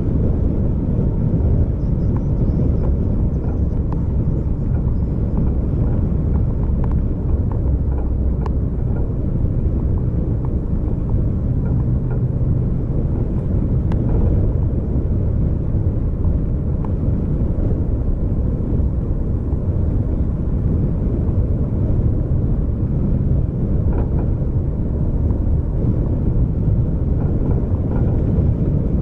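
Steady low rumble of a vehicle driving along a road, engine and road noise together, with no sharp events.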